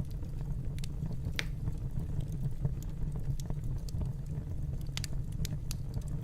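Wood fire crackling: scattered sharp pops and ticks over a steady low rumble.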